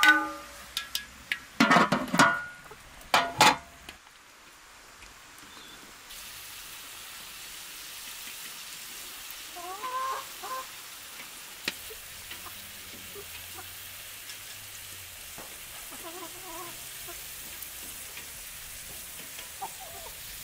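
Several sharp knocks in the first few seconds, then food frying with a steady sizzle, while chickens cluck in short calls now and then.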